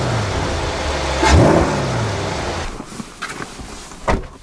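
Chevrolet Corvette C8 Stingray's LT2 pushrod V8 revving: the engine note falls back, rises sharply in a blip about a second in, then dies away. Near the end it goes much quieter, with a couple of sharp clicks.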